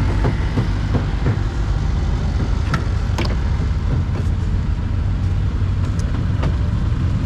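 Steady low rumble of running engines, with faint voices in the background and a few sharp clicks.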